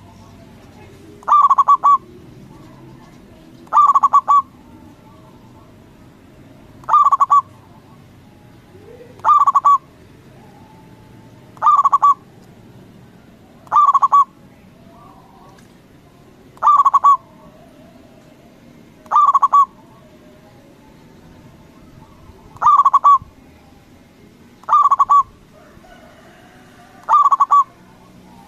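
Zebra dove (perkutut) cooing its song, a short, quickly stuttered phrase, about eleven times at a steady pace of one every two to three seconds.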